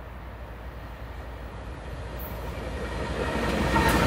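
Diesel locomotives of a two-unit CN freight train approaching and passing, the engine rumble growing steadily louder. Wheel and rail noise comes up sharply near the end as the lead unit reaches the microphone.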